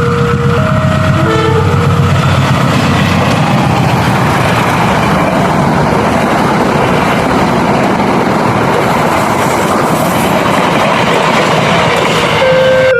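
A train passing over a level crossing: a loud, steady rush of wheel and rail noise lasting about eleven seconds. The crossing's two-tone warning alarm alternates high and low about once a second, is covered by the train about a second in, and sounds again near the end.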